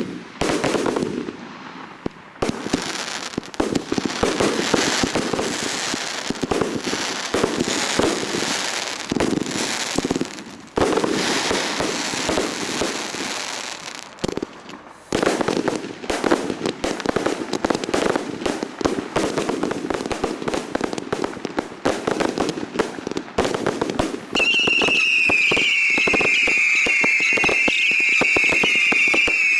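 Fireworks display: a dense, continuous run of bangs and crackling bursts, easing briefly about ten and fourteen seconds in. About twenty-four seconds in, a cluster of high whistles, each sliding slightly down in pitch, joins the barrage.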